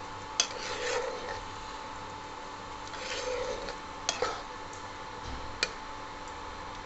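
Steel spatula stirring thick spinach gravy in a nonstick pan: wet scraping swishes, with a few sharp clicks of the spatula against the pan, the loudest about half a second in and others around four and five and a half seconds in.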